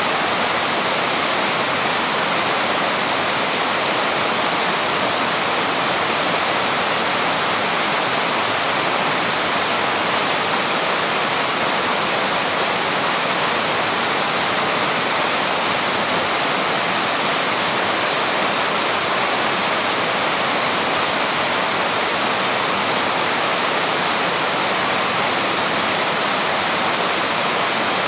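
A small waterfall rushing steadily, its falling water making an even hiss with no breaks or changes.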